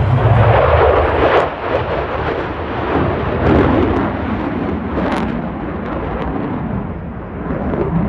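Loud jet noise from an F-35A Lightning II's single afterburning turbofan engine, a rough, rumbling roar that swells and eases as the fighter flies its display.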